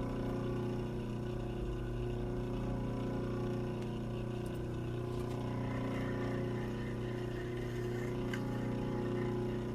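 Steady machine hum, with a few faint ticks in the second half.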